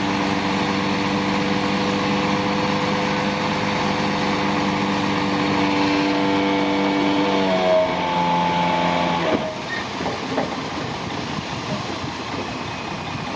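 Heavy diesel engine of earthmoving machinery running at a steady high speed. The pitch rises briefly about seven and a half seconds in, then the engine note drops away suddenly a little after nine seconds, leaving a lower, rougher rumble.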